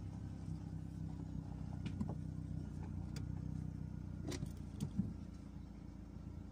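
Vauxhall Astra H 1.6 petrol engine idling steadily, heard from inside the cabin. It has a diesel-like ticking that the owner is pretty sure comes from the F17 gearbox. A few short clicks stand out, the sharpest about five seconds in.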